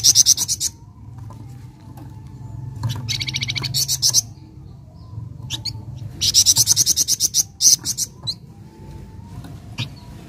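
Flamboyan bird calling in three bursts of fast, evenly repeated high notes: one at the start, one about three seconds in and a longer one about six seconds in, each lasting under a second to about a second and a half. A steady low hum runs underneath.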